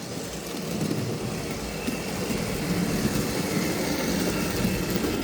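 Vintage Tri-ang model train running on the track, its electric motor and wheels making a steady hum and rumble that slowly grows louder; it sounds loud.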